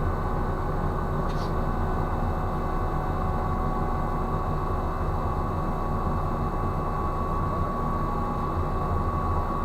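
Heavy shipboard machinery running steadily: a low drone with a thin, steady high whine over it. There is one faint click about a second and a half in.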